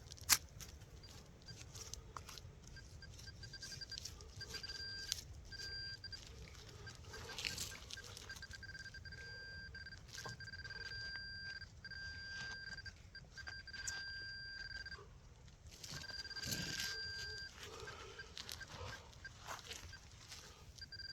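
Metal detector sounding its high steady target tone, chopped into short beeps and longer held stretches as it passes over buried metal, with a pause a little past the middle. Scrapes and knocks of digging in wet ground sound alongside.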